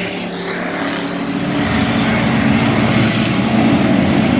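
Race car engines running on track during a race, a steady engine drone that grows louder as the cars come nearer.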